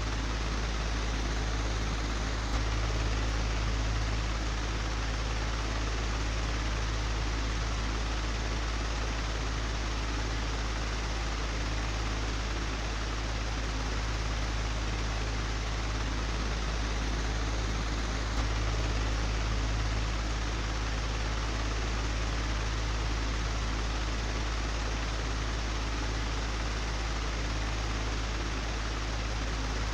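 Old, broken electric fan running steadily: a deep hum under an even rush of air noise, swelling slightly a couple of times.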